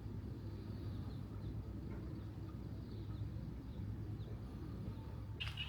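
Small birds chirping faintly and now and then over a low, steady background rumble, with a louder burst of chirping near the end.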